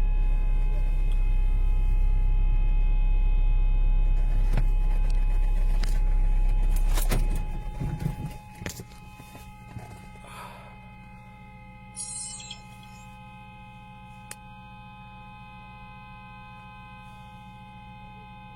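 A loud, steady low rumble that cuts off about seven and a half seconds in, leaving a quieter steady electronic hum with a few clicks and a brief hiss.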